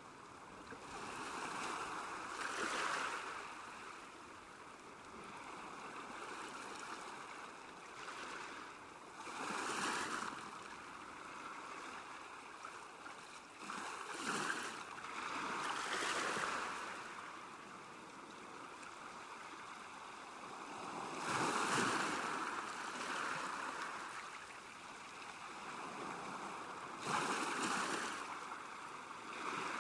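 Small waves lapping on a lakeshore, a steady wash of water with swells every few seconds.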